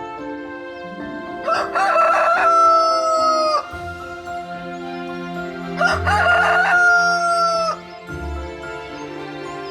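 A rooster crowing twice, each crow a broken start then a long held, slightly falling note, over soft background music.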